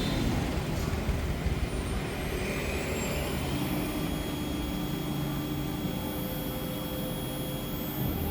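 LXSHOW 6090 CNC router running: steady machine noise, with a thin high-pitched whine and a low hum that set in about three and a half seconds in.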